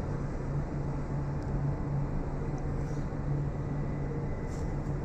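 A steady low mechanical hum over a constant rumble of background noise.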